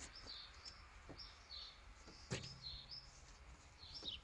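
A small bird chirping: a series of short, high chirps, faint, with a single sharp knock about two and a half seconds in.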